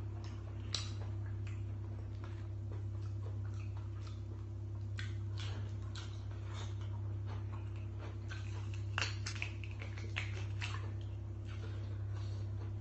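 A person chewing food with wet mouth clicks and smacks, coming irregularly and thickest in the middle, over a steady low hum.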